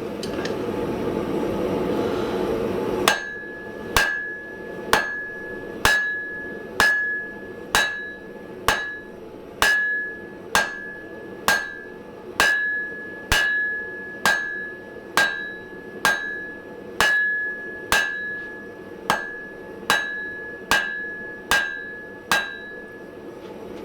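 Hand hammer blows on hot 1045 steel on an anvil, forging a hardy tool: about twenty evenly paced strikes, roughly one a second, each with a short ringing note. They start after about three seconds of steady rushing noise.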